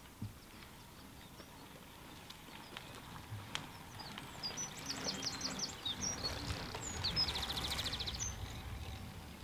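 Forest birds chirping, with a short rapid trill near the end, over a low rumble that swells through the middle. A few sharp clicks are also heard.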